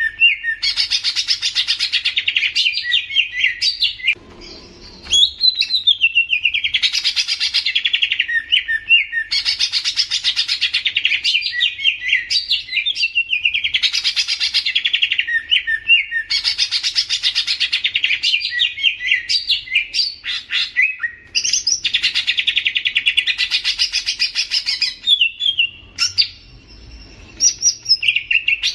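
A songbird singing long, rapid, chattering phrases of about two seconds each, repeated one after another with short pauses and a longer break twice.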